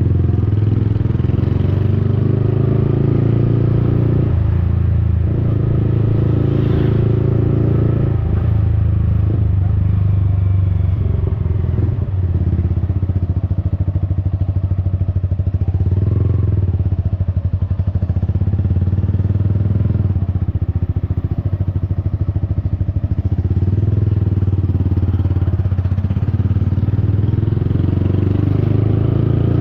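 Yamaha XSR 155's single-cylinder engine running through an aftermarket Akrapovic-replica exhaust while riding in city traffic, its note dipping and rising several times with throttle changes and gear shifts.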